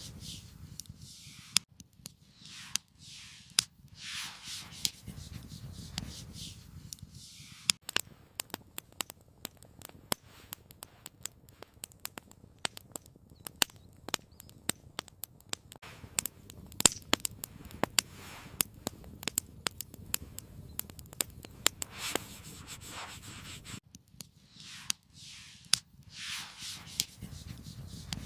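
Wood campfire crackling with many sharp, irregular pops, thickest through the middle. A few swishing, scraping sounds of a second or two each come near the start and again near the end.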